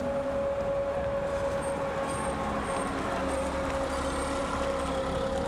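Stryker eight-wheeled armoured vehicle driving past close by, its diesel engine and drivetrain running steadily with a high, even whine over a low rumble.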